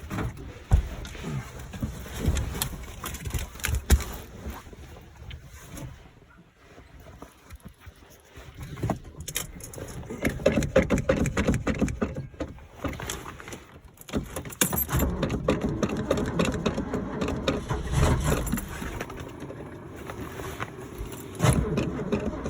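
Ford 390 FE V8 in an F250 being cranked by the starter on a hard cold start. There are two long bursts of rapid, even cranking with a short pause between them. Before that come a few knocks and key jingles in the cab.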